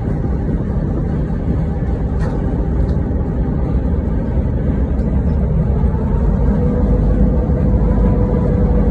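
Freight train rolling past with a steady, loud rumble, and a faint steady whine above it.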